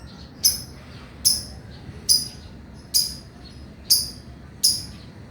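Male lovebird giving six short, shrill, high-pitched calls in an even series, about one call a second.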